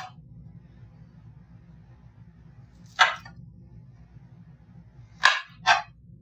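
A knife cutting through apples being cored and quartered, with three short crunching cuts: one about three seconds in and two in quick succession near the end. A faint steady hum runs underneath.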